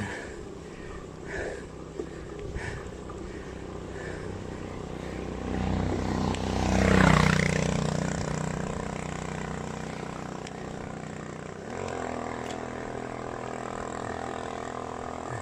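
A motor vehicle passes close by, its engine sound building to a peak about seven seconds in and then fading. A steady engine hum is heard again near the end.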